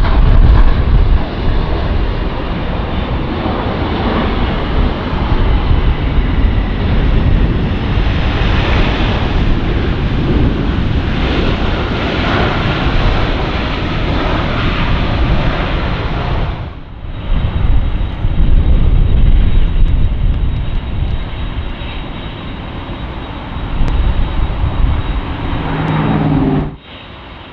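Jet airliner engines heard loud and close as a heavy jet comes in on approach to land, with a deep rumble under the noise. The sound drops sharply for a moment about two-thirds of the way through, then comes back.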